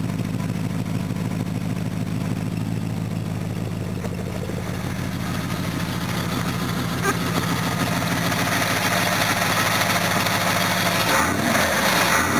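Holden (GMH) 308 5-litre V8 idling steadily after a hard cold start on petrol, with its belts a bit noisy. The sound grows louder from about halfway, and the engine note briefly dips and comes back near the end.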